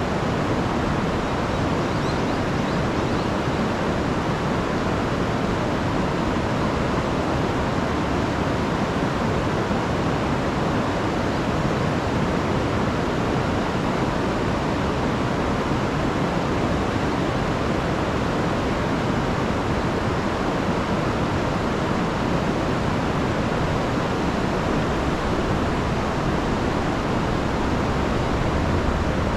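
A rain-swollen river rushing over falls, a steady, even roar of water.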